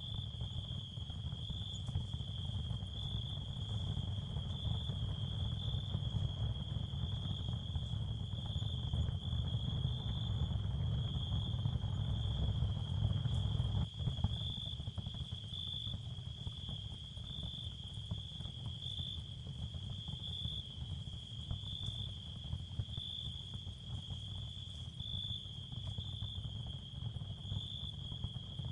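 Crickets chirping steadily in a recorded nature ambience, a continuous high trill that pulses slightly, over a low rumble that builds and then drops away suddenly about halfway through.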